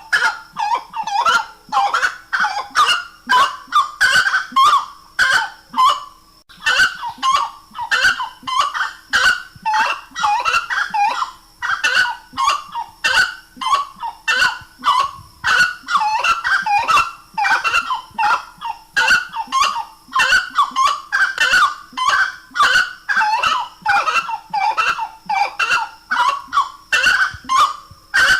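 Grey-cowled wood rail (saracura-três-potes) calling: a loud, rapid series of repeated harsh notes, about three a second, with a brief pause about six and a half seconds in.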